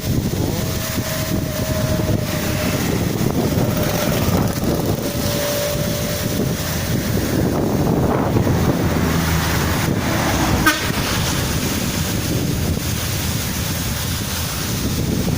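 Waterfall rushing steadily, with road traffic passing and a faint held horn-like tone during the first six seconds or so.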